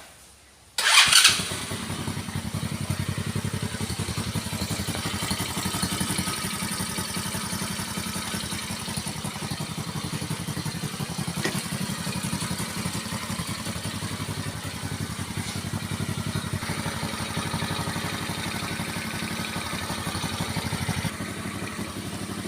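Quad bike engine starting about a second in, then running steadily at idle.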